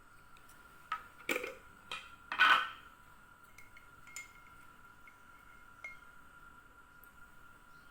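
Dishes and kitchen utensils clattering: a few knocks about a second in, the loudest around two and a half seconds, then a few light clicks. A faint steady high hum runs underneath.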